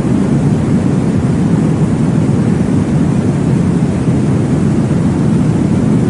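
Baby-sleep noise track: a steady, deep rushing noise that stays level throughout, weighted toward the low end, with no distinct beat or change.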